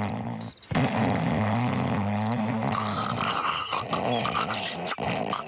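A cartoon man's loud snoring in long, wavering, growl-like breaths, with a short break about half a second in and a higher, brighter tone from a bit before three seconds in.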